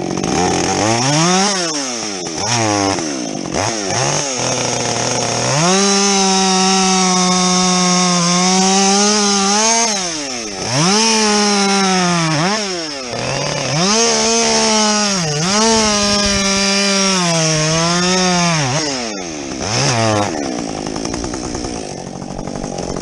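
Husqvarna 562XP two-stroke chainsaw with a modified muffler cutting through a log at full throttle. It revs up a few times, then holds high revs whose pitch sags each time the chain bites into the wood and climbs again. About 20 seconds in, the revs drop back toward idle.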